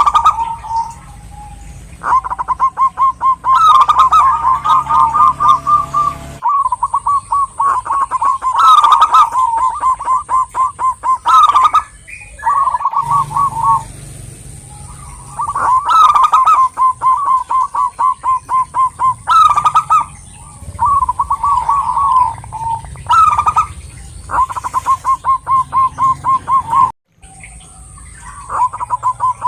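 Zebra dove (perkutut) singing: repeated phrases of rapid, evenly spaced cooing notes, each phrase lasting a second or two, with short pauses between and a few abrupt breaks.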